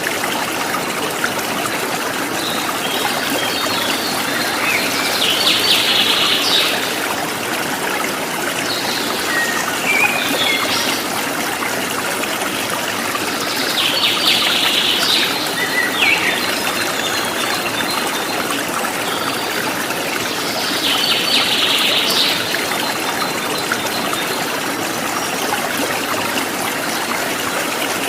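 Steady running water of a stream, with a songbird singing short phrases of song over it, recurring every several seconds.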